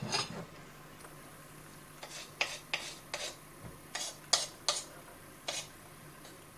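Spoon stirring and scraping a thick, sticky kalu dodol mixture in a bowl: a series of short scrapes, roughly one every half second to a second, starting about two seconds in. A faint steady low hum runs beneath.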